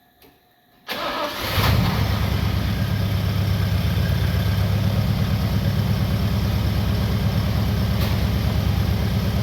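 A 1962 Oldsmobile F85's aluminium-block V8 is started. The starter cranks briefly about a second in, the engine catches almost at once and settles into a steady, smooth idle.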